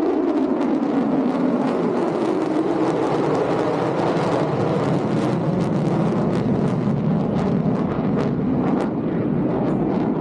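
Loud jet noise from an F-35A Lightning II's Pratt & Whitney F135 engine as it passes low overhead. Its pitch falls over the first two seconds as the jet goes by, then holds steady.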